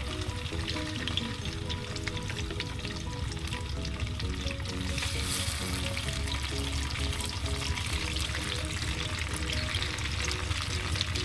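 Climbing perch (cá rô đồng) frying in hot oil: a steady sizzle with a dense, constant crackle.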